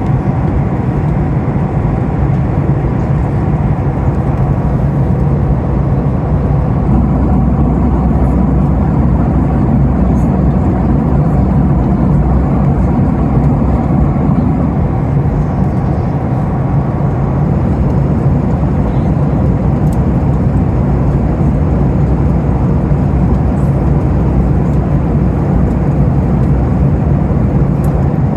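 Steady cabin noise of a Boeing 737-8 in flight: an even, loud rumble of its CFM LEAP-1B engines and rushing air, with a few faint steady tones running through it.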